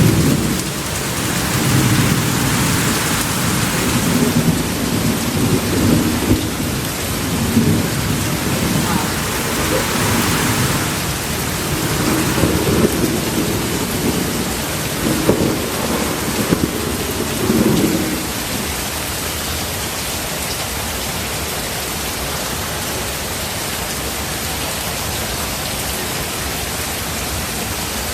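Steady heavy rain with thunder rumbling and rolling in repeated swells, dying away about two-thirds of the way through and leaving only the even hiss of the rain.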